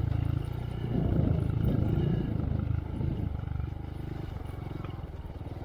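Honda Monkey's single-cylinder engine running through a Yoshimura RS3 exhaust, pulling harder for a couple of seconds and then easing off to a lower, quieter run about three and a half seconds in.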